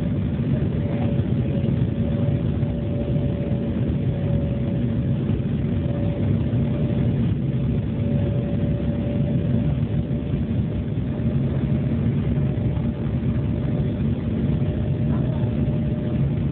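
Embraer E-175's turbofan engines running steadily: a constant low rumble with a steady whine on top.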